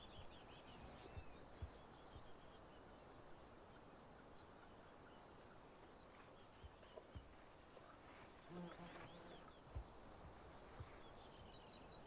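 Faint outdoor ambience in which a small bird gives short, high, falling calls about once a second, with a few soft low knocks and a brief low tone about three-quarters of the way through.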